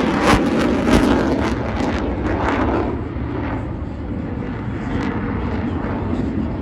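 Fixed-wing aircraft flying past, a loud steady engine rumble that eases a little midway.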